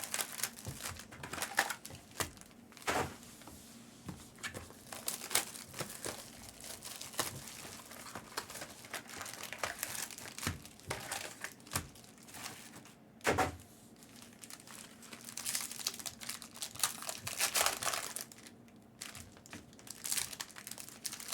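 Plastic and foil trading-card pack wrappers crinkling and tearing as packs are opened by hand, with irregular crackles and clicks of cards being handled and one louder knock about two-thirds of the way through.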